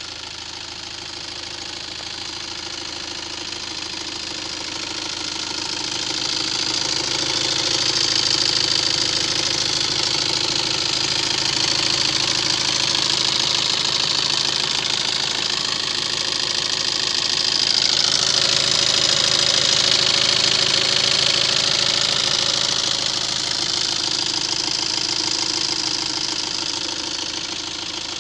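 Tata Yodha pickup's diesel engine running steadily. It grows louder over the first several seconds, swells again past the middle, and eases off toward the end.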